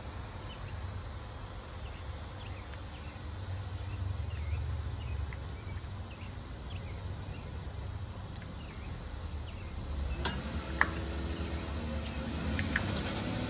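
Low rumble of a Jeep's engine running, with small birds chirping. After about ten seconds the engine note picks up and there are a couple of sharp clicks.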